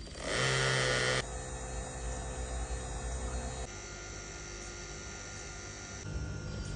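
A loud electrical buzz lasting about a second, then a steady electrical hum with faint whining tones that change in steps twice.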